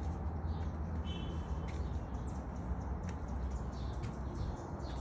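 Faint bird chirps outdoors over a steady low rumble of background noise, with a few soft clicks.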